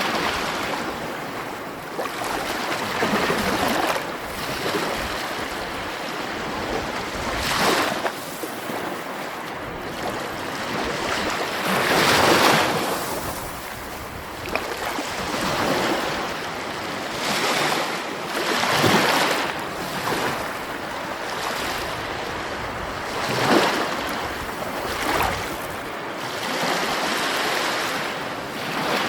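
Sea waves breaking on a shore, a steady wash of surf with a fresh wave cresting every few seconds, the biggest about twelve seconds in.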